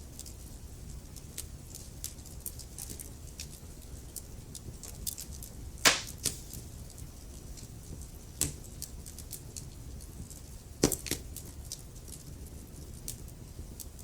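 Wood fire crackling: a run of small sharp snaps with a few louder pops, the loudest about six seconds in and a quick pair near eleven seconds, over a low steady rumble of the burning fire.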